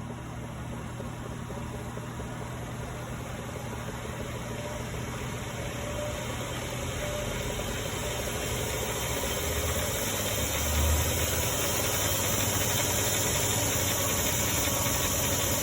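DC treadmill motor driving a 3-in-1 mill drill lathe as its speed controller is turned up: the running whine rises slowly in pitch and grows steadily louder. There is a brief low thump about eleven seconds in.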